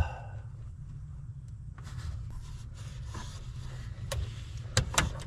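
Plastic cable tie being handled: faint rustling and light clicks, then two or three sharp clicks shortly before the end, over a steady low rumble.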